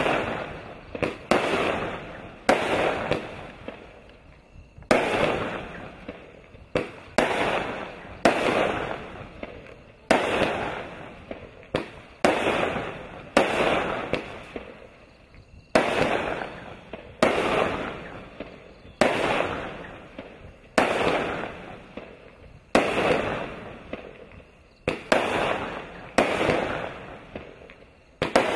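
Consumer 25-shot fireworks cake firing: a sharp bang about every one to two seconds as each shot breaks into glittering willow stars, each bang dying away over a second or so before the next.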